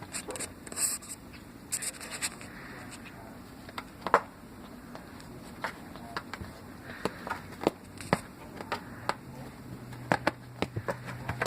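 Cat mouthing and chewing a freshly caught bird: irregular small clicks and scratchy ticks. A low steady hum comes in about two-thirds of the way through.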